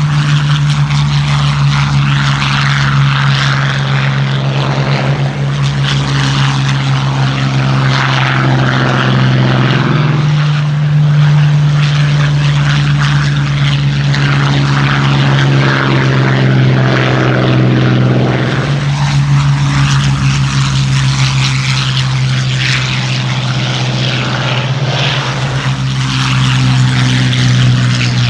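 Several Hawker Hurricanes' Rolls-Royce Merlin V12 piston engines running at high power for take-off: a loud, continuous propeller drone. Its pitch shifts a little about ten seconds in and again about two-thirds of the way through.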